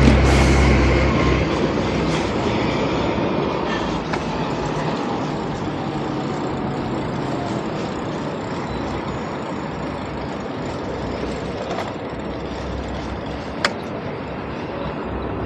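Steady street and riding noise from moving along a city road. A heavy vehicle's low rumble fades out in the first second or so, and a single sharp click comes near the end.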